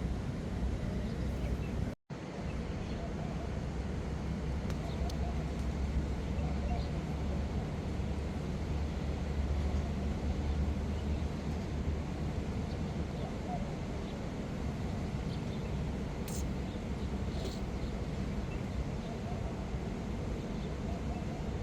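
Steady low outdoor background rumble, cutting out to silence for a moment about two seconds in.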